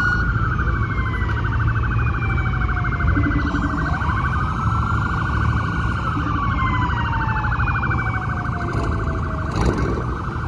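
Police sirens. One wails, falling slowly in pitch over about four seconds and then sweeping quickly back up, twice, over another siren's steady, rapidly pulsing tone. A low rumble runs underneath.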